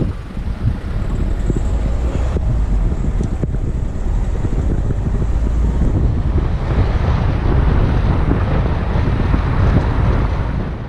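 Car driving, a steady low road rumble with wind buffeting the microphone; it cuts off suddenly at the end.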